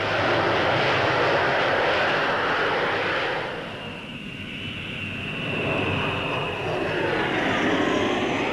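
Aircraft flying past overhead: a loud engine roar that fades about four seconds in, then builds again with a high steady whine.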